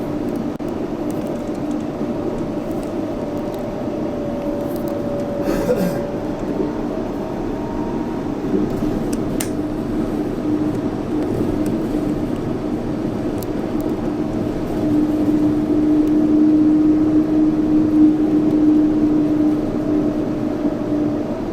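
Yurikamome 7300-series rubber-tyred automated guideway train running at a steady speed: tyre rumble on the guideway with a steady electric motor whine, growing louder about two-thirds of the way through.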